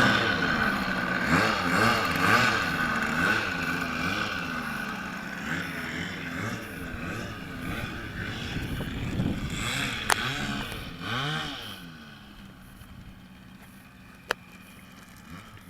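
Radio-controlled Bronco model airplane in flight, the drone of its twin motors swooping up and down in pitch again and again as it passes and turns. The drone grows fainter and fades out about twelve seconds in, with two sharp clicks near the end.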